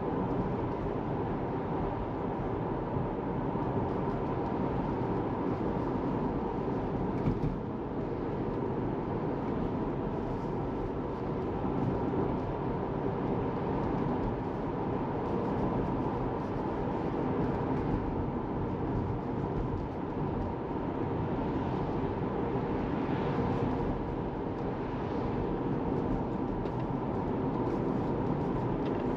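Steady road and tyre noise inside the cabin of a moving Tesla Model 3, an electric car with no engine sound, with a few brief swells along the way.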